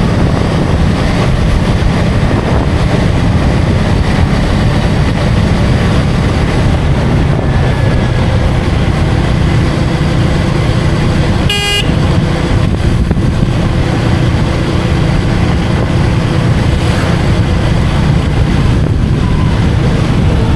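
KTM Duke 250 motorcycle's single-cylinder engine running steadily at road speed with wind and road noise, heard from the rider's seat, and one short horn toot about halfway through.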